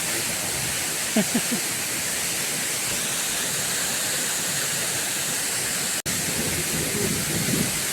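Steady, even rush of falling water from heavy rain and the waterfall beside the camp, briefly cutting out about six seconds in.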